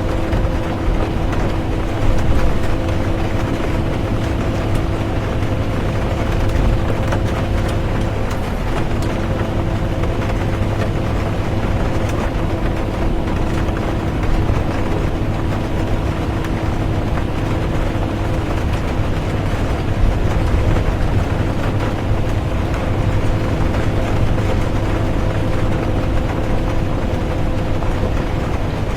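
Inside a moving bus: a steady engine and road rumble with a constant drivetrain hum, which wavers briefly about eight seconds in, under rain falling on the bus.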